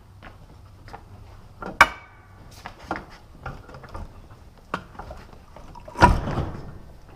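Metal knocks and clunks as a heavy motorcycle is handled on a caster-wheeled steel dolly. There are small taps throughout, a sharp ringing clank about two seconds in, and a heavier clunk with a rumbling decay about six seconds in.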